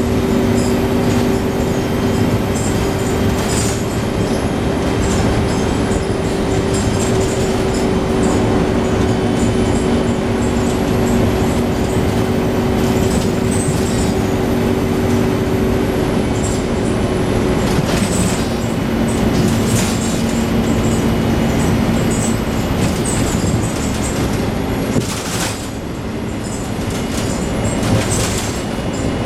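Scania N113 double-decker bus under way, heard from on board: a steady drivetrain hum with whining tones and occasional rattles, dipping briefly about three-quarters through.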